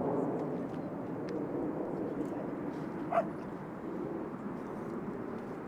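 Distant jet noise from the Blue Angels' jets, a steady rumble growing fainter, with one short sharp yelp about three seconds in.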